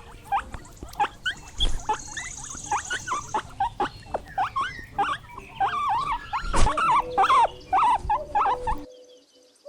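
Guinea pig squeaking: a fast, busy run of short high squeaks, with one knock a little past halfway, stopping about a second before the end.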